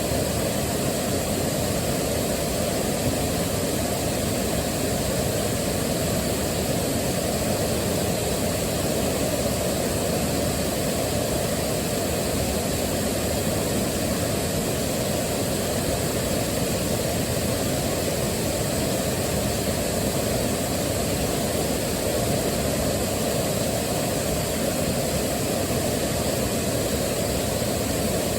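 Waterfall rushing steadily, an even, unbroken roar of falling water, heaviest in the low range.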